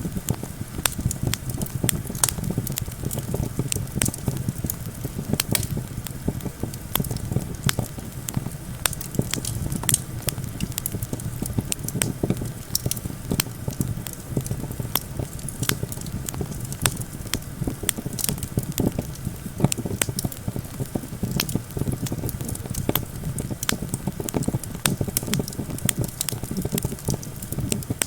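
Wood campfire crackling and popping with many quick sharp snaps, over a steady low rumble of wind.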